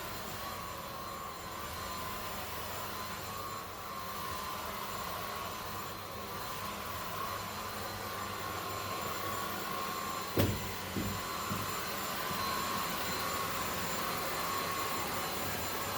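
Zoker A10 Pro cordless stick vacuum running steadily on its highest power setting, a constant motor whine. A sharp knock about ten seconds in, then a couple of fainter ones.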